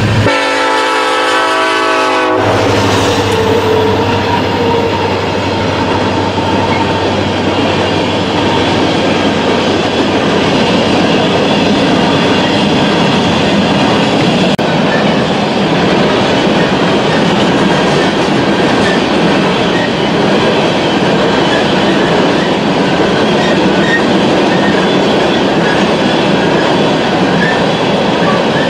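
Freight train horn sounding for about two seconds as the BNSF diesel locomotives pass, cutting off abruptly, followed by the steady rumble and clickety-clack of loaded hopper cars rolling by.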